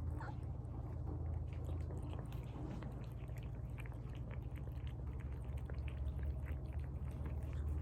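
A cat eating wet tuna, with a fast, irregular run of small wet chewing and smacking clicks over a steady low hum.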